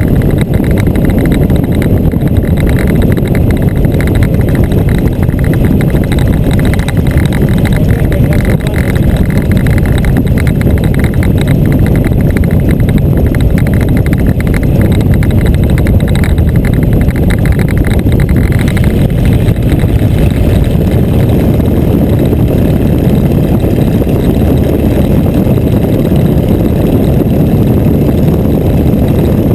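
Boeing Stearman biplane's radial engine running loud and steady through aerobatic maneuvers. About eighteen seconds in, the higher edge of the sound fades and it runs on lower and duller.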